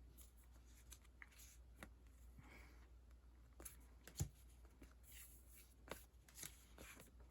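Faint rustling and light taps of sticker sheets and their plastic packaging being handled, with one sharper tap about four seconds in.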